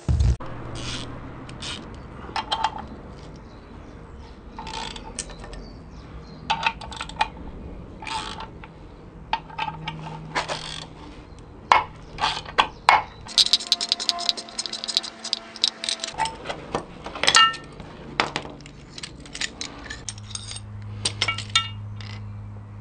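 Metal tools clicking and clinking as a bearing puller and counter-holder are worked to draw a ball bearing out of a quad's gearbox cover, with a quick run of rapid clicks partway through, over a low steady hum.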